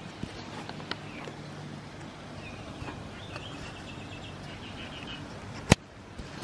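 Quiet outdoor background with a bird's quick chattering call of rapid high notes in the middle, and a single sharp click near the end.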